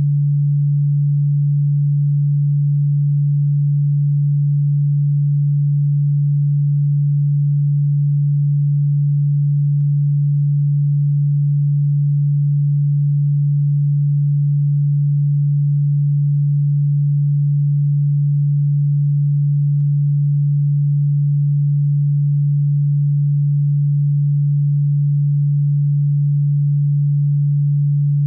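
A steady electronic sine tone at a single low pitch that never changes, played as a cockroach-repellent sound frequency.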